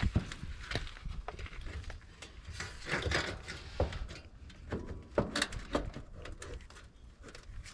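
Irregular light knocks and clicks, spaced unevenly, with some rubbing in between.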